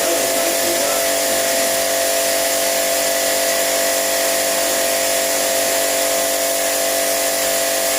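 Electric motor-driven machine running steadily at an even speed: a hum of several fixed tones over a hiss.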